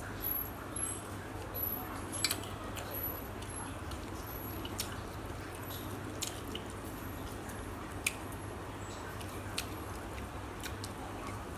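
Someone eating: soft chewing and squishy mouth sounds with a few sharp clicks here and there, over a steady background hiss.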